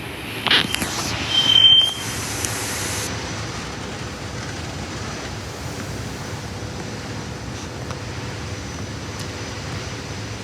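SEPTA Regional Rail electric train at the station platform, giving a steady rumble and hum. A short knock comes about half a second in, followed by a brief high tone.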